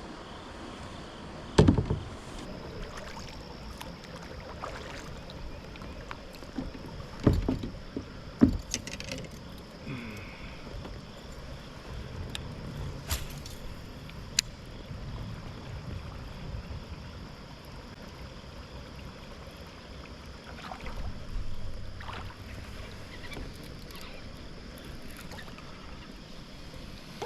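A few heavy thumps and knocks inside a fishing kayak, three of them loud, over a steady outdoor background.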